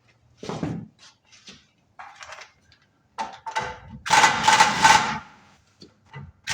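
A pneumatic tool running in a loud burst of about a second, about four seconds in, with a steady whine over its noise, preceded by a few light knocks of tools and parts being handled.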